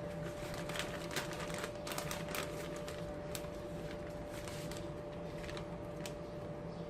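Short, light crackles and taps from hands rolling and pressing breaded chicken cubes in dry breadcrumbs, in an irregular scatter, over a faint steady hum.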